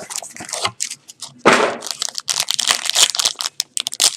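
Plastic wrapping and card packaging being torn open by hand: a run of crinkling and crackling, with one loud rip about a second and a half in.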